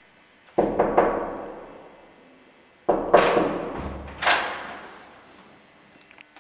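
Five heavy blows in two groups, two and then three, each starting sharply and trailing off in a long fading ring.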